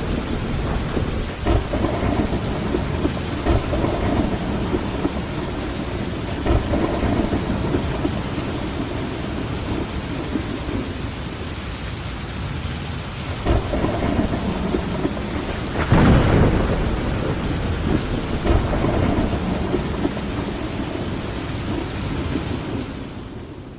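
Steady rain pattering on window glass, with low rolls of thunder swelling underneath, the loudest about two-thirds of the way through. The whole sound fades out at the very end.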